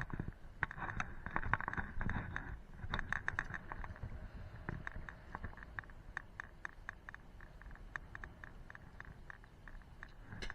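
Mountain stream water running, with gusts of wind rumbling in the first few seconds and a run of small clicks and scrapes throughout.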